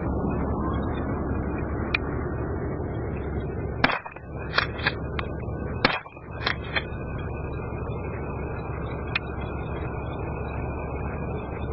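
Two shotgun shots about two seconds apart, each a sharp crack followed by a few smaller clicks, over a steady background of wind and field noise.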